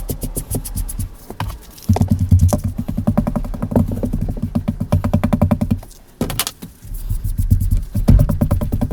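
A dynamic microphone being taken apart by hand: rapid runs of small clicks and rattles from its parts and tools, with a heavier rumbling stretch from about two to six seconds in and again near the end.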